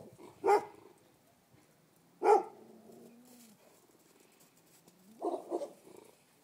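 Dogs barking: a sharp bark about half a second in, a louder one near two seconds, then a quick run of two or three barks near the end.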